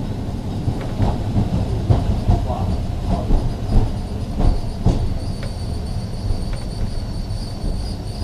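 Ex-Liverpool Corporation tram 869 running along the track: a steady rumble from the wheels and running gear, with several knocks over the first half. From about five seconds in, a steady high-pitched wheel squeal sets in.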